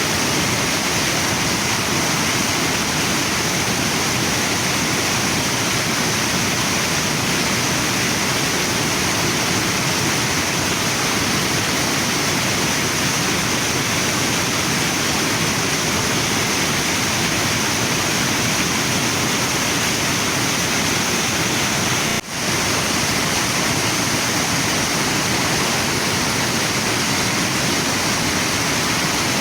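Waterfall and river water rushing steadily in a dense, even roar, with a momentary drop in level about two-thirds of the way through.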